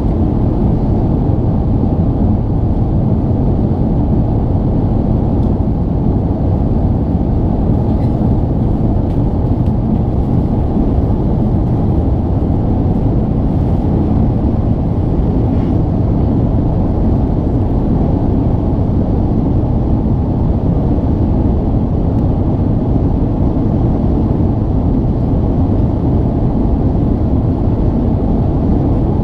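Airbus A380-800 passenger cabin noise heard from a window seat: the engines and airflow make a loud, steady, low rumble with no change in level.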